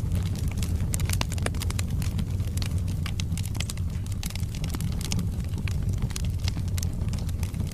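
Wood logs burning in a fireplace: frequent sharp crackles and pops, irregular and several a second, over a steady low rumble of the flames.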